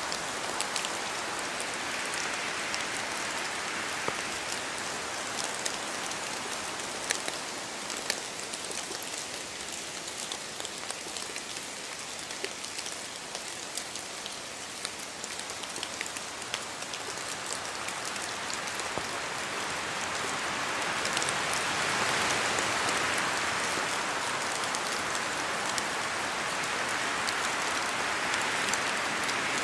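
Steady rain falling through forest trees, with many separate drops pattering and dripping from the leaves. A gust of wind swells through the canopy in the second half, making the hiss louder.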